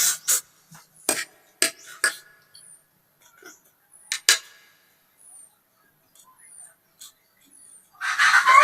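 Sharp, scattered crunches and clicks of someone eating, bites and chewing at irregular intervals. Near the end a loud, wavering pitched call or cry starts.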